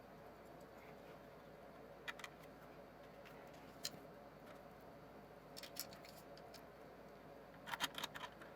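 Faint, scattered clicks and light taps of small parts being handled while the TiVo Roamio's case is put back together, over quiet room tone. There is a small cluster of clicks near the end.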